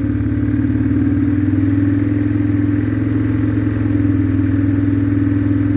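2004 Yamaha Kodiak 450's single-cylinder four-stroke engine running steadily at a fast idle as it warms up after a cold start, off full choke with the throttle held slightly open. The pitch rises a little in the first couple of seconds, then holds.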